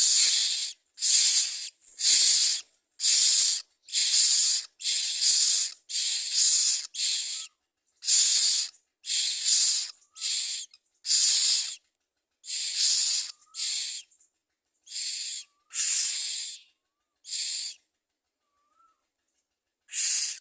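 Common myna nestlings begging in the nest: a run of harsh, hissing rasps about one a second, with faint short squeaks between some of them. The rasps pause for about two seconds near the end, then one more comes.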